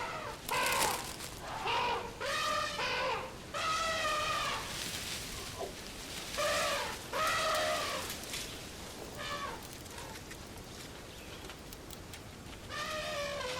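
A string of short animal-like calls, each under a second, with a wavering, bending pitch. They come in irregular bursts, pause for a few seconds, then one more call comes near the end.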